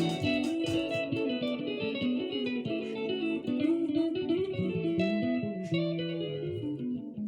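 Congolese seben (sebene) music: electric guitars picking fast, high, repeating runs over a moving bass guitar line.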